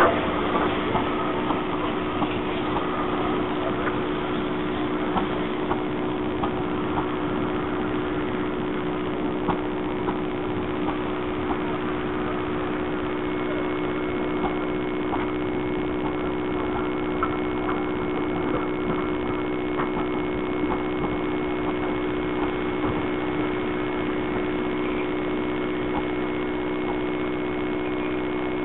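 Passenger coaches of a steam-hauled train rolling slowly past on the track, wheels clicking and creaking at short irregular moments over a steady low hum.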